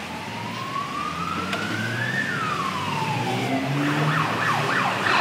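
Emergency vehicle siren: a slow wail rising and then falling, switching to a rapid yelp about three and a half seconds in, and growing louder as it comes closer.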